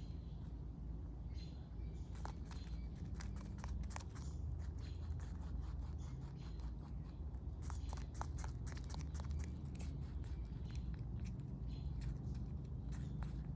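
Rabbit chewing close by: quick, crisp crunching clicks in irregular runs, over a low steady hum.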